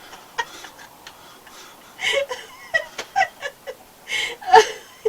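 A woman giggling uncontrollably in bursts of quick, short laughs after a quieter start, with a loud breathy gasp of laughter near the end.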